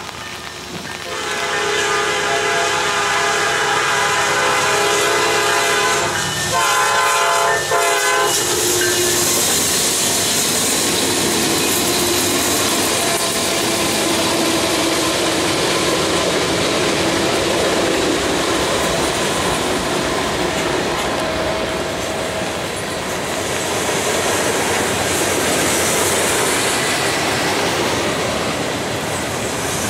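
Diesel freight train's locomotive horn blowing long blasts for a grade crossing, stopping about eight seconds in. Then the consist of diesel locomotives passes close by, followed by freight cars clattering over the rail joints.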